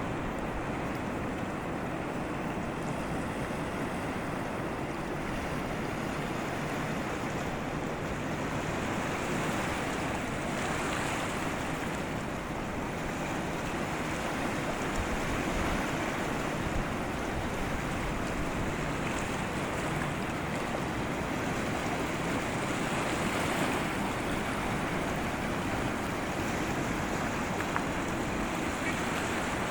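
Sea surf washing steadily onto the shore, with some wind, swelling a little now and then.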